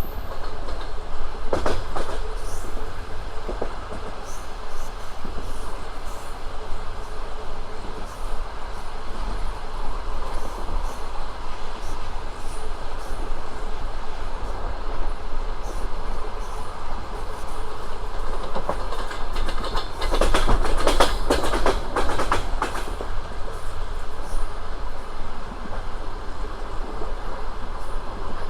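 Passenger train running along the line: steady rumble of wheels on track with clickety-clack over the rail joints, and a denser, louder run of clatter about two-thirds of the way through.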